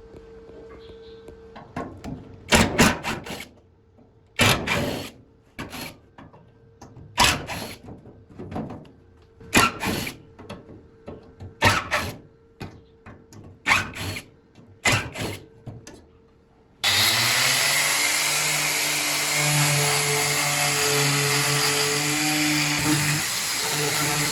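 A power tool run in short bursts, about one every second or two. About two-thirds of the way in, a steady hissing machine sound with a low hum starts suddenly and keeps going.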